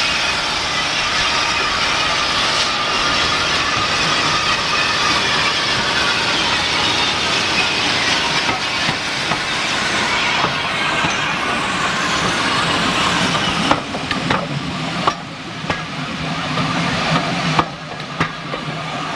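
Heritage railway steam train running, with a steady rushing hiss that eases about fourteen seconds in. Scattered clanks and knocks follow.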